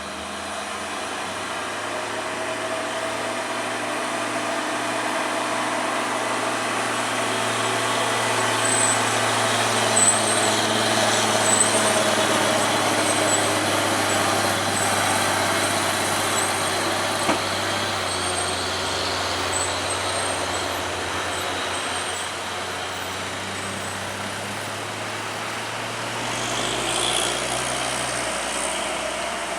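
A motor vehicle's engine running steadily, its noise swelling and then easing off, with faint high squeaks in the middle.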